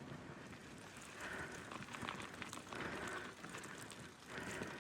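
Faint crackling hiss of bicycle tyres rolling over wet, muddy gravel, swelling three times.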